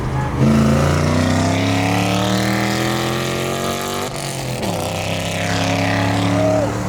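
Car engine at full throttle, accelerating hard: its pitch climbs steadily, drops sharply with an upshift about four seconds in, then climbs again.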